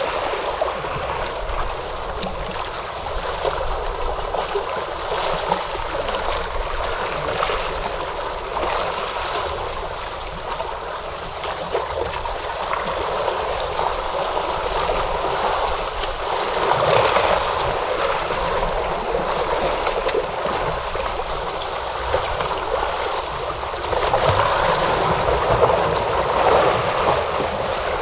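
Ocean surf washing in continuously, a steady rush of water that swells louder about two-thirds of the way through and again near the end.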